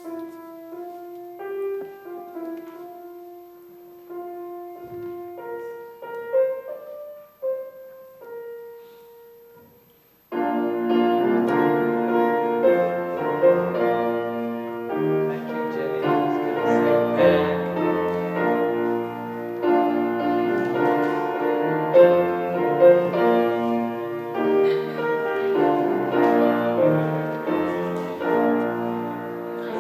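Piano playing the postlude after the benediction: a few soft, long-held notes for about ten seconds, then a louder piece in full chords begins suddenly and carries on.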